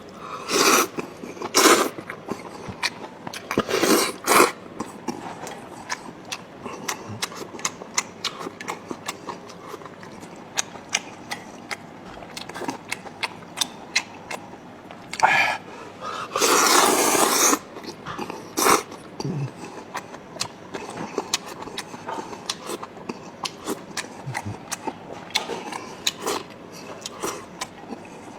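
Close-up eating sounds: steady chewing with many small wet mouth clicks, broken by a few louder bursts near the start and a longer noisy burst of a second or so about two-thirds of the way through.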